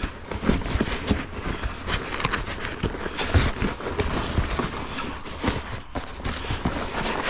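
Plastic packaging bag rustling and crinkling, with many small knocks, as the boxed air compressor is handled and pulled out of it.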